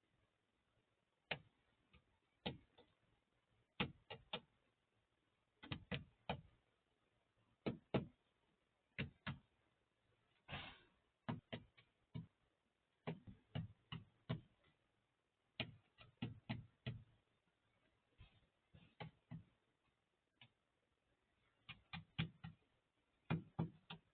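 Birds pecking at food on a hard feeding surface: sharp, irregular taps, often in quick clusters of two to four, with short pauses between.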